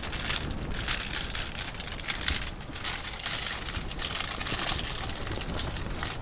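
Ice-fishing tent fabric flapping and crackling steadily in a gale-force wind.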